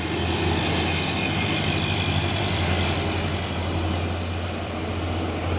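Heavy truck's diesel engine running with a steady low drone.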